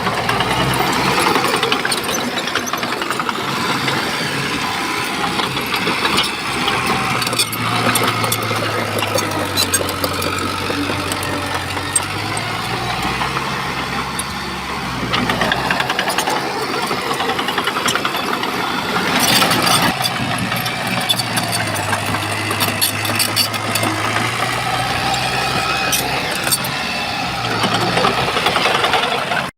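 Shantui bulldozer's heavy diesel engine running under working load, its pitch shifting up and down several times. Scattered sharp clicks and knocks come through, bunched about two-thirds of the way in and again near the end.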